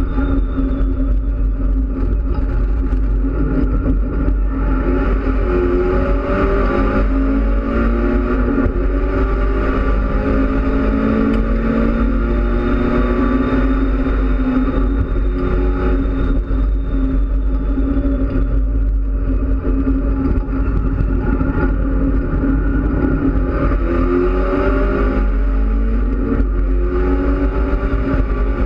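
Mitsubishi Lancer Evolution X race car's turbocharged four-cylinder engine, heard from inside the stripped cabin, running hard on track. Its note climbs for several seconds as the car accelerates, drops about two-thirds of the way in, and climbs again near the end, over a steady low rumble.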